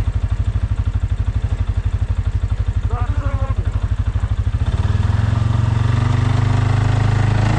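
Quad ATV engine running at a low, evenly pulsing idle, then about two-thirds of the way through it revs up and holds a louder, steadier note that climbs slightly in pitch.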